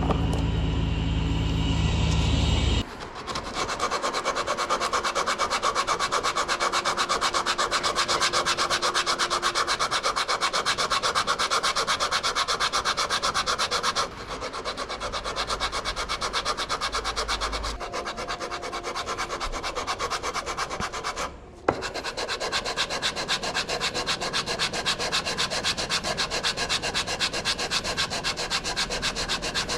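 Fast, steady rhythmic rubbing or scraping, like sanding or brushing a part, with a low hum under it for the first few seconds and short breaks about 14 and 21 seconds in.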